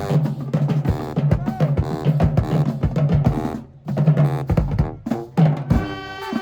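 High school marching band playing: horns over a drumline beat, breaking off briefly about four seconds in, then drums drop out as the horns hold sustained chords near the end.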